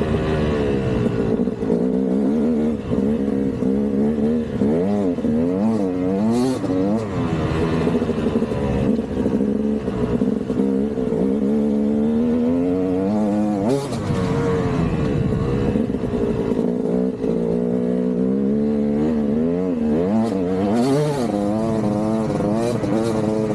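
KTM 200 single-cylinder two-stroke dirt bike engine being ridden off-road. It revs up and down with the throttle, its pitch rising and falling every second or two.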